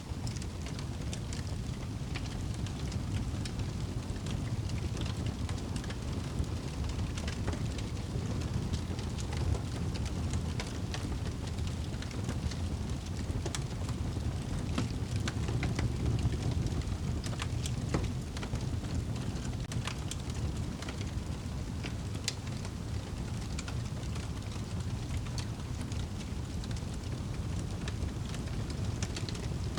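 Wood fire burning in a fireplace: a steady low rumble of flames with frequent small irregular crackles and pops, a few sharper pops standing out.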